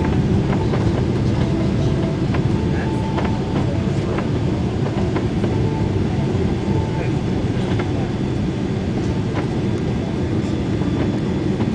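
Cabin noise inside a Boeing 777-200 coming in to land: a steady low rumble of engines and airflow, muffled by a covered phone microphone, with scattered light rattles and clicks.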